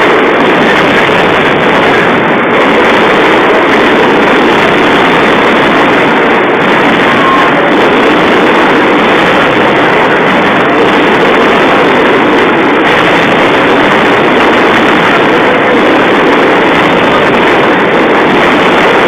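A daytime firework barrage of firecrackers going off so densely that they merge into one steady, very loud crackling noise with no separate bangs, overloading the recording.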